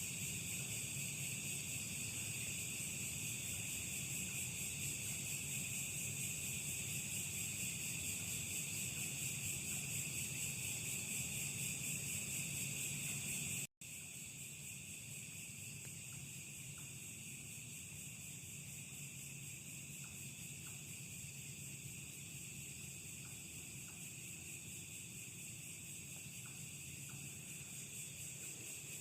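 Steady night chorus of crickets and other insects, high-pitched and rapidly pulsing, with a faint low hum beneath; it cuts out for an instant about halfway through and carries on a little quieter.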